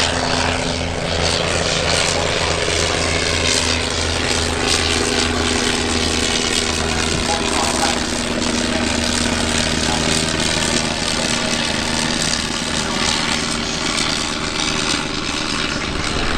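Propeller-driven airplane's piston engine running steadily as the aircraft flies past.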